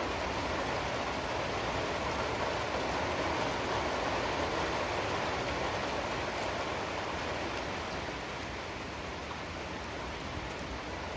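Steady rain falling, an even hiss of drops with a few sharper drip ticks. It eases slightly about eight seconds in.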